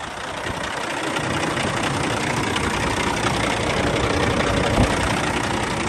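Cat C11 diesel engine of a 2004 Kenworth W900 dump truck idling steadily, with one short thump just under five seconds in.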